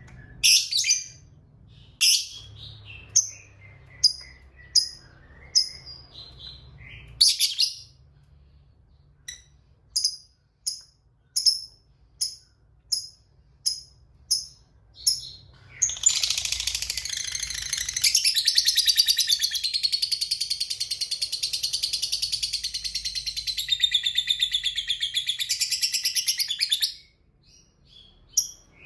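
Fighter lovebird giving a run of sharp, high single chirps about one a second, then breaking into a long, rapid chattering trill, the 'ngekek panjang', that lasts about ten seconds and stops abruptly, followed by a couple more chirps.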